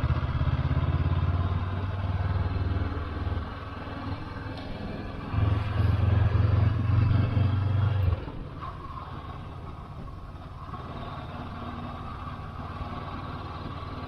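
Motorcycle engine running under way, pulling strongly, easing off after a few seconds, pulling hard again briefly, then dropping to quieter running for the rest.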